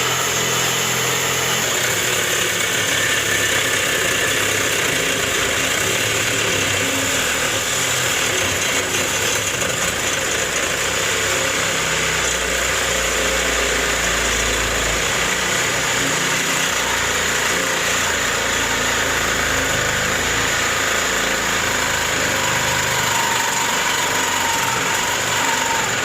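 Cordless battery-powered cutting tool running steadily under load with a constant high whine while cutting into the chiller's metal. It stops abruptly when its battery goes dead.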